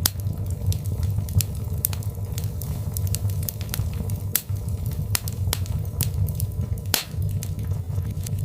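Birchwood logs burning in a fireplace: irregular sharp crackles and pops over a steady low rumble of the flames, with one louder pop near the end.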